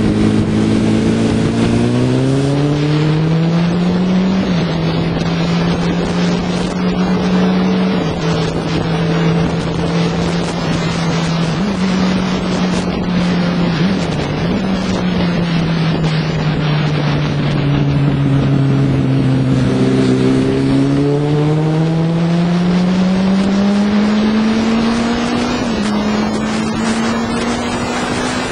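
Motorcycle engine under way, revving up through the gears with a small pitch step at each shift, easing off and slowing about halfway through, then accelerating again. Wind rushes over the microphone throughout.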